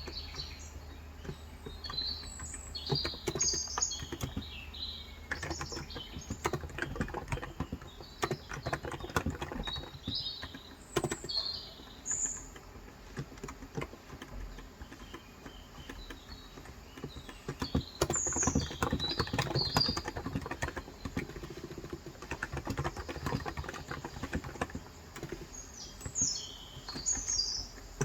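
Fast, continuous typing on a Cox Endeavor electrostatic-capacitive (non-contact, 35 g) tenkeyless keyboard, dense runs of key strokes. Birds chirp in short high bursts several times over the typing.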